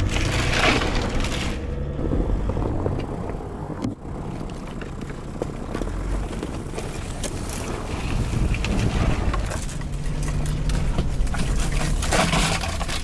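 Steady rumbling noise of a vehicle on the move, with scattered small knocks.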